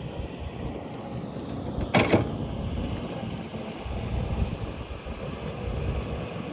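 Low, uneven rumble of wind on the microphone, with a sharp double knock about two seconds in.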